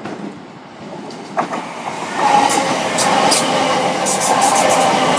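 c2c Class 357 Electrostar electric multiple unit running in alongside the platform, getting much louder about two seconds in as it draws level. A steady tone runs under the noise, with a run of sharp clicks from the wheels over the rails.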